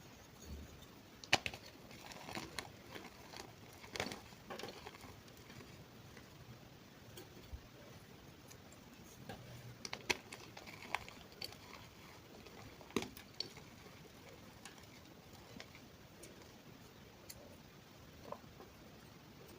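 Faint, scattered light clicks and taps, a few every couple of seconds, over low room noise.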